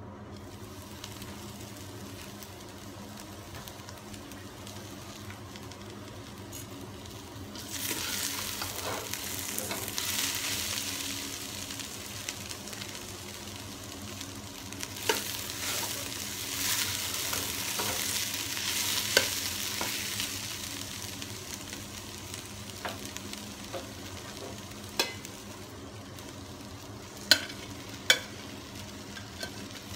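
Chopped vegetables sizzling and frying in a stainless steel pot as they are stirred with a metal slotted spoon, the sizzle loudest in two spells about a third of the way in and around the middle. Sharp metal clinks of the spoon and pots against the pot come through now and then, most strongly near the end, over a low steady hum.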